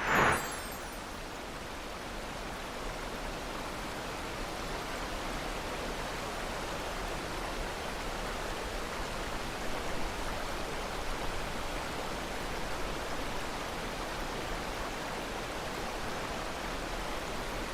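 Steady rushing of flowing water, an even noise without rhythm, with one short loud burst right at the start.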